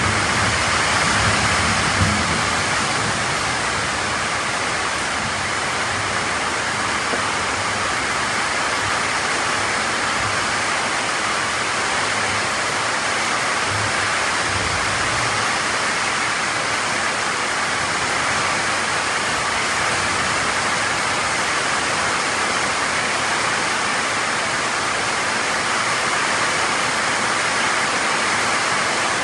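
Heavy tropical downpour: a steady hiss of rain pouring down on trees and foliage. A low rumble of thunder dies away in the first couple of seconds.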